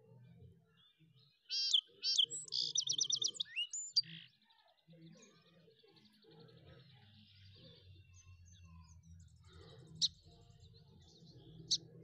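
A bird chirping, with a quick run of high notes and a fast trill about two seconds in. A faint low hum runs under it, and there are two short sharp sounds near the end.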